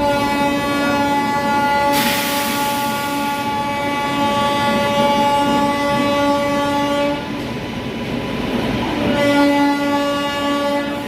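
Indian Railways locomotive horn sounding one long blast of about seven seconds, then a second, shorter blast about two seconds later. A brief burst of hiss comes about two seconds in.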